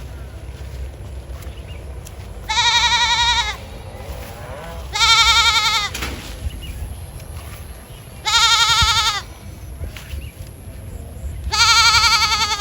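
An animal bleating four times, each call about a second long and high-pitched with a wavering pitch, the calls roughly three seconds apart.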